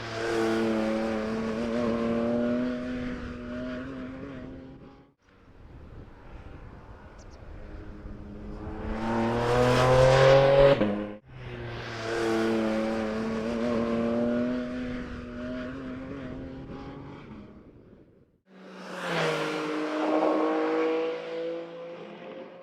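Porsche 718 Cayman GT4 RS's naturally aspirated 4.0-litre flat-six engine running hard in several short stretches that cut off abruptly. In the loudest stretch the engine revs up, climbing steadily in pitch under acceleration and peaking about ten seconds in.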